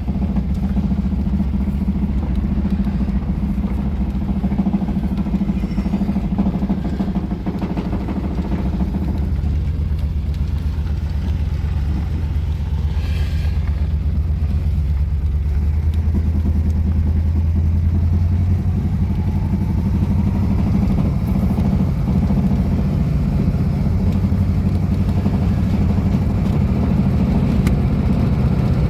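1967 Ford Thunderbird's 390 V8 running as the car drives along the road, with its note shifting in pitch a few times as speed changes.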